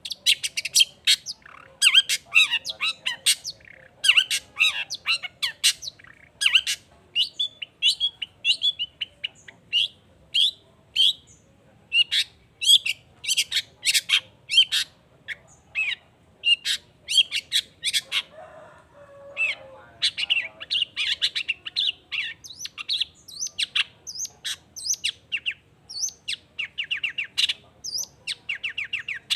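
Long-tailed shrike (cendet) singing a fast, varied song of sharp high chirps and quick trills in rapid runs with short pauses, with one rougher, lower-pitched note about two-thirds of the way through.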